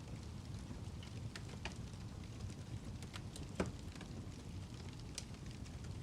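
Fireplace fire crackling: a low steady rumble with scattered sharp pops, the loudest about three and a half seconds in.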